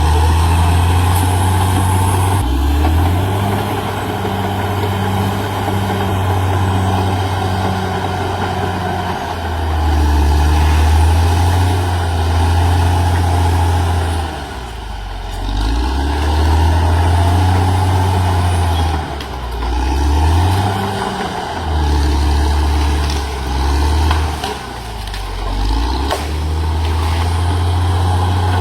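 CAT D6R XL bulldozer's diesel engine running under load, its pitch rising and falling as the load changes, with a few short dips in engine speed.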